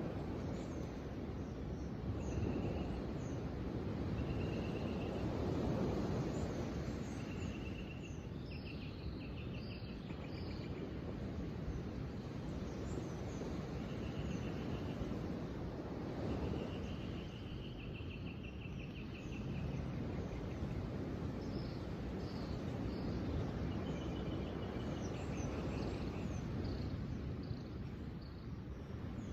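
Several birds singing outdoors: short trilled phrases repeated every few seconds and scattered high chirps, over a steady low rush of outdoor background noise that swells and eases.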